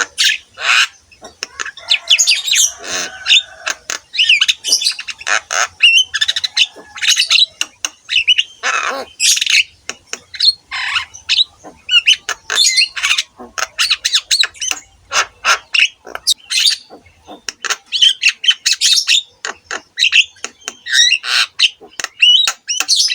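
Javan myna (jalak kebo) singing in full, energetic song: a rapid, almost unbroken run of short, varied calls, many of them sliding up or down in pitch.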